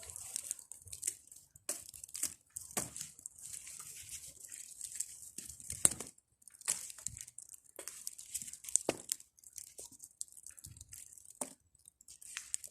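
Bonfire of pruned garden branches crackling, with irregular sharp pops over a faint hiss as it burns down.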